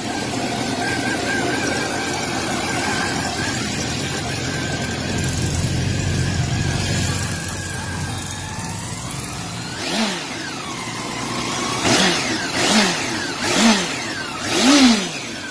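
Honda CB400 motorcycle on its stock exhaust idling, then revved in five quick throttle blips, each rising and falling in pitch, starting about two-thirds of the way through; the last blip is the longest and loudest.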